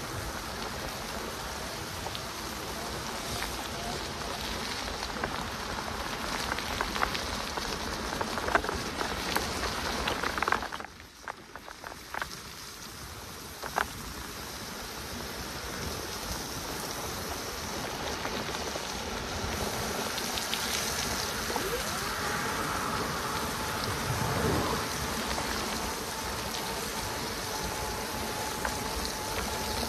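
Steady rain and the hiss of an e-bike's tyres on a wet tarmac path, with the faint whir of its electric motor. A few sharp taps stand out, and the sound briefly drops away about eleven seconds in.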